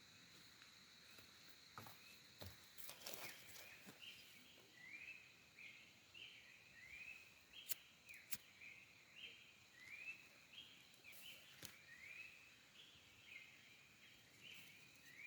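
Faint outdoor ambience with a bird calling a long series of short, upward-sliding notes, about two a second, starting about four seconds in. A faint high steady insect-like tone fades out early on, and a few sharp clicks come and go.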